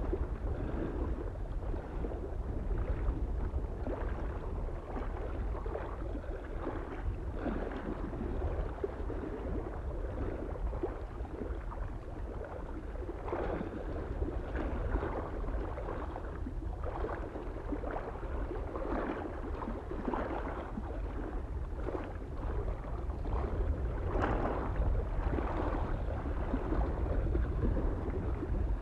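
Small waves lapping and splashing irregularly against a lake shore, over a steady low rumble of soft wind on the microphone.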